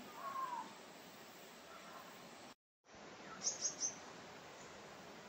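Wild birds calling over a faint, steady outdoor hiss: one curving call near the start, then, after a brief dropout to silence, three quick high chirps.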